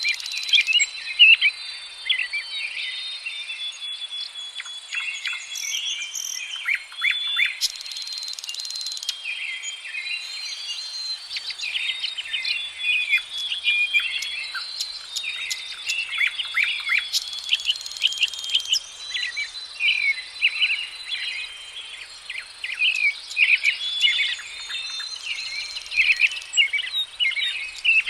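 Several songbirds chirping and singing in quick, overlapping phrases, over a steady high-pitched hiss.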